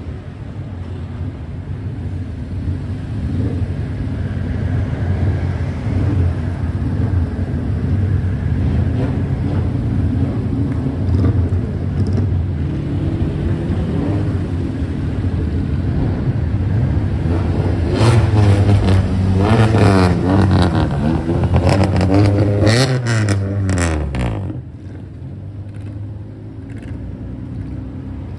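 Car engines running and revving, with a run of sharp throttle blips about two-thirds of the way through, after which the engine note falls and drops away suddenly, leaving a lower steady hum.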